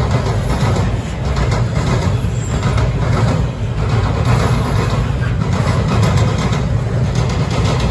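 Double-stack container well cars of a freight train rolling past: a steady, loud rumble of steel wheels on rail.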